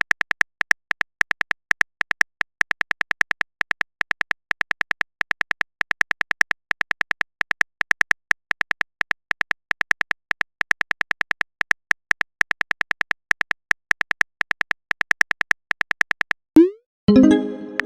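A long run of quick, light keyboard-tap clicks from a texting-app typing sound effect, several a second with short pauses between runs.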